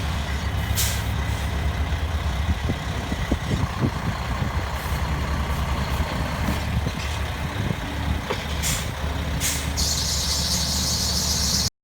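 Mack E7-427 12-litre diesel engine running steadily, with short hisses of air about a second in and again later, and a longer hiss near the end.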